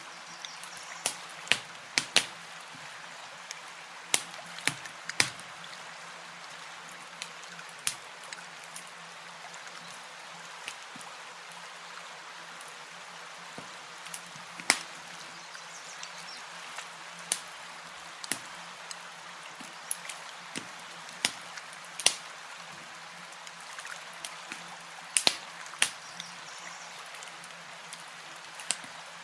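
Campfire crackling, with sharp irregular pops, over a steady wash of lapping lake water.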